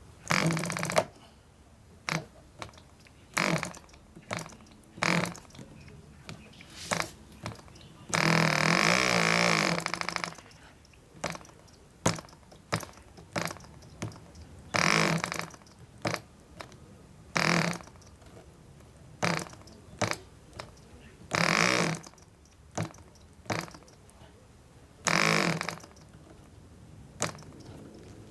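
A PAW 0.5 cc model diesel engine is being flicked over by hand during starting. Short clicks from the flicks are broken by repeated brief bursts of firing that die out at once. About eight seconds in it catches and runs for about two seconds before stopping again.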